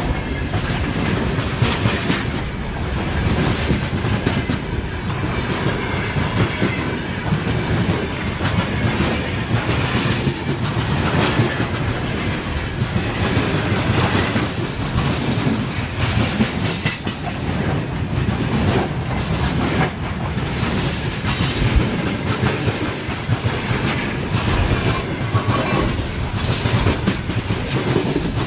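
Freight train rolling past, its wagon wheels giving a continuous clatter of clicks over the rail joints.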